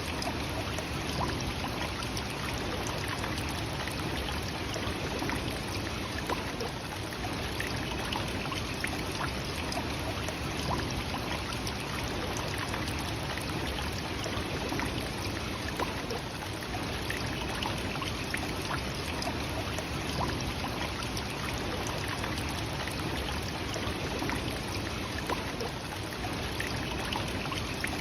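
Nachi Falls, a tall single-drop waterfall, plunging steadily: a constant, even rush of falling water.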